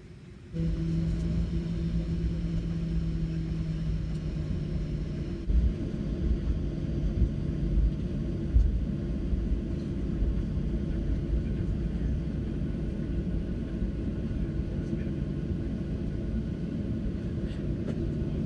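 Airliner's jet engines and wheels heard from inside the cabin: a loud, steady rumble that starts suddenly about half a second in, with a few jolts from about five to nine seconds in, as on a takeoff roll.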